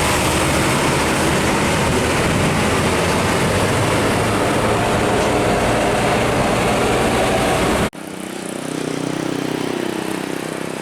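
Heavy truck's diesel engine and tyres running loud and close while passing. The sound cuts off abruptly near the end and gives way to a quieter vehicle going by, its engine pitch rising and then falling.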